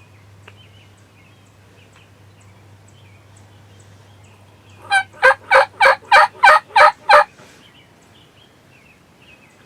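A run of eight loud turkey yelps, about three a second, lasting a little over two seconds and starting about five seconds in.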